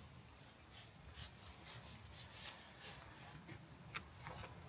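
Near silence: faint rustling and scattered light clicks, with one sharper click about four seconds in.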